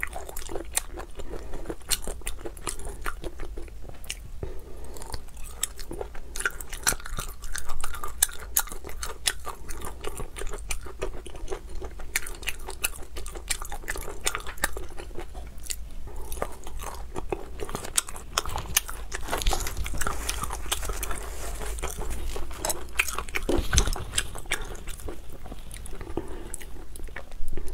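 Close-miked chewing and biting of spicy marinated yellow-cattle cowhide strips: a steady, irregular run of crisp mouth clicks and crunches.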